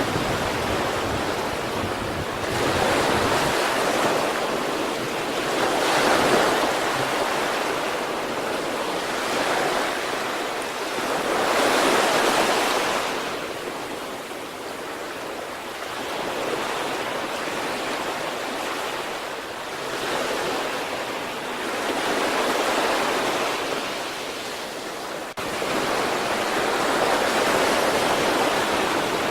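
Sea waves breaking and washing up the shore, the surf swelling and fading every few seconds.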